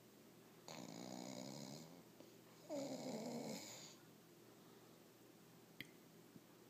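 A sleeping dog snoring: two rasping snores of about a second each, the second louder and opening with a falling pitch.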